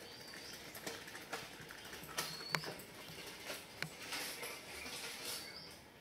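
A few short, high chirps from small birds, about a second in, a little after two seconds and again near the end, over a low outdoor hiss, with several sharp clicks scattered between them.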